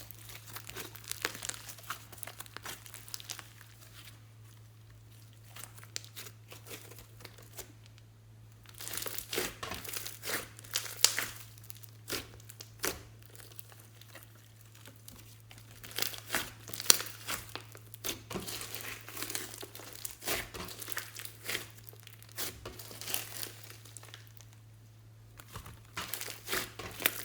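Glossy slime being squished and worked by hand, giving clusters of sticky crackles and pops with short quiet pauses between, over a steady low hum.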